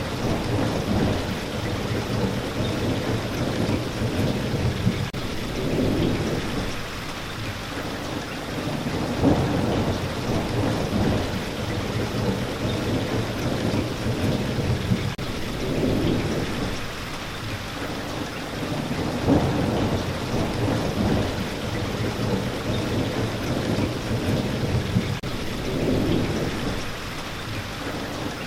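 Steady rain falling, with deep rolls of thunder swelling and fading every few seconds.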